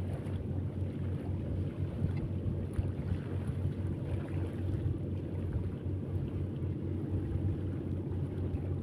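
A steady low motor drone that holds even throughout.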